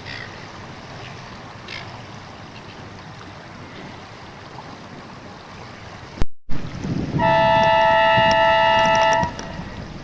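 Wind buffeting the microphone, then, after a brief break in the sound, a sailing-race signal horn gives one steady blast of about two seconds.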